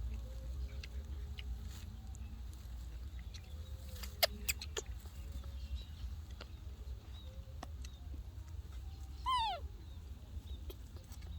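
A baby monkey gives one short squeal that falls in pitch, about nine seconds in, over a steady low rumble. A few sharp clicks come around four seconds in.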